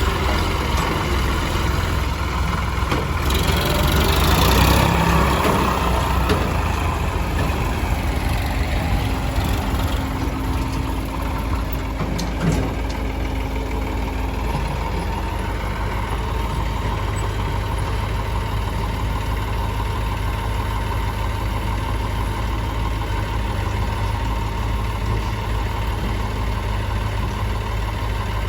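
Heavy diesel engines of a tractor and backhoe loader running steadily near idle during soil loading. A louder rush of noise swells about four seconds in, and a single knock comes about twelve seconds in.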